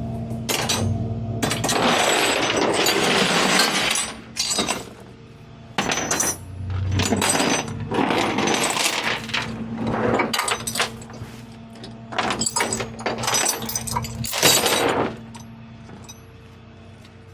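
Repeated bursts of metal clattering and rattling, each lasting a second or more, over a steady engine hum from the idling rollback tow truck.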